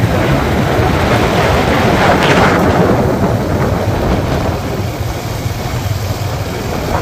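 Single-cylinder 350 cc motorcycle engine running at riding speed, with steady wind rush over the microphone.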